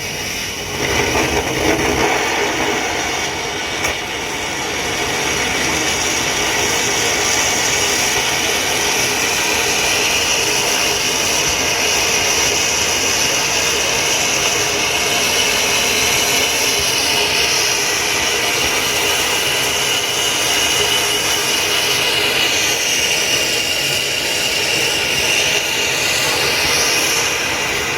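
Prototype hybrid rocket engine firing: a steady, loud roar with a faint whistling tone in it, starting abruptly and holding level. Near the end a high whistle wavers up and down.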